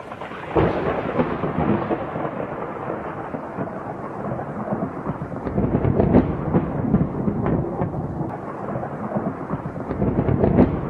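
Storm noise: a continuous rumbling, rushing din of strong wind and rough weather, surging and easing, with many short crackles through it. It jumps up about half a second in.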